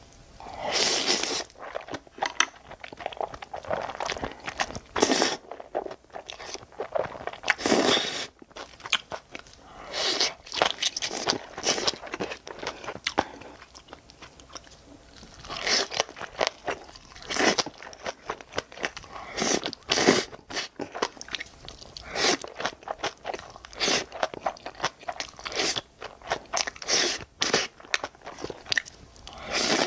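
Close-miked eating sounds: a person biting, chewing and crunching food in quick, irregular bursts, with short pauses between mouthfuls.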